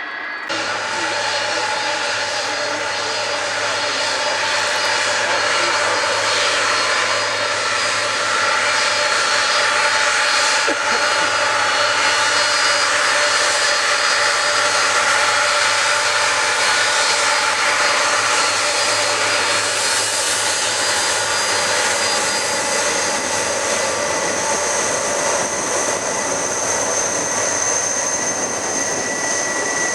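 Jet airliner engines running loud and steady: a rushing noise with several high whining tones laid over it. It starts abruptly about half a second in.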